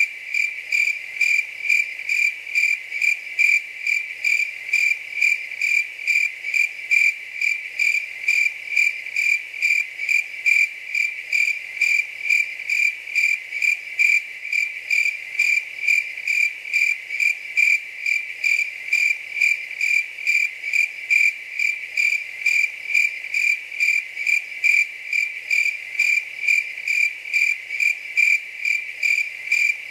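Cricket chirping steadily: a high, even note repeated in short chirps a few times a second, without a break.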